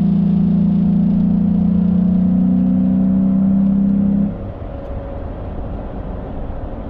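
Inside the cab, a 2011 Ford F-150's 5.0-litre Coyote V8 pulling under full throttle with a loud, steady drone that creeps slowly up in pitch. About four seconds in the drone cuts away sharply as the throttle is lifted, leaving a quieter engine and road rumble while coasting.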